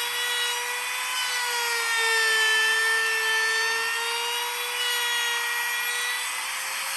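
Electric power tool running steadily with a motor whine that wavers slightly in pitch as it works wood, with a rasping hiss on top.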